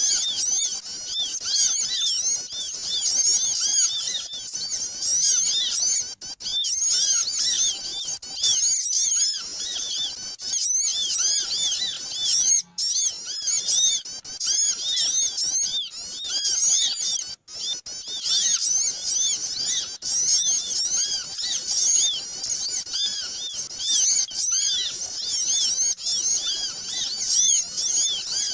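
Busy chorus of many small birds chirping and twittering at once, short high arched calls overlapping without pause; a bird-catcher's lure (pikat) recording meant to draw small birds in. The sound cuts out briefly twice, near the middle.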